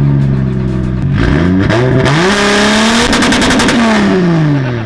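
Turbocharged Toyota 2JZ-GTE straight-six in a built 1993 Supra revving hard: the pitch dips about a second in, climbs quickly, holds high with a rushing hiss and a rapid fluttering rattle, then falls away near the end. Really loud.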